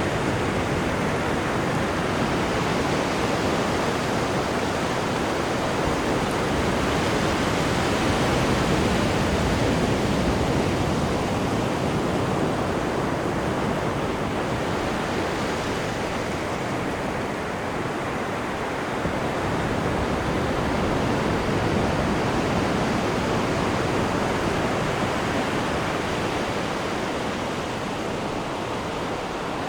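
Sea water rushing behind the stern of a moving cruise ship, a steady hiss of waves and churned wake that swells and eases slowly.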